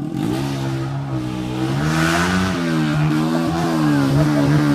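Motocross motorcycle engine running, its pitch dipping and rising repeatedly as the throttle is opened and closed.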